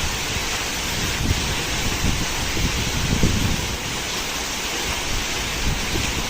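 Heavy rain falling steadily, with strong wind gusting and buffeting the microphone.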